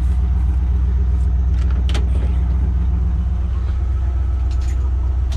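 Grain truck engine idling with a steady low hum, and a single sharp click about two seconds in.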